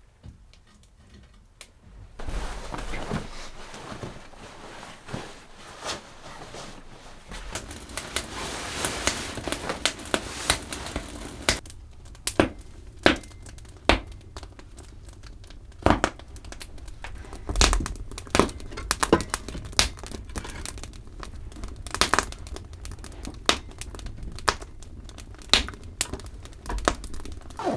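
Crinkling and rustling of something being handled, with many sharp clicks and knocks, starting about two seconds in.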